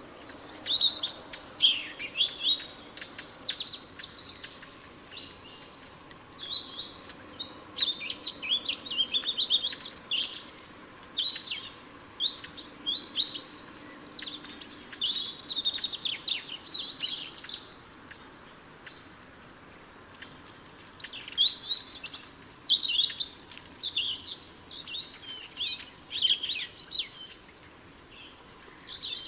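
Small garden songbirds chirping and calling in a busy, overlapping chatter, thinning out about two-thirds of the way through and picking up again soon after.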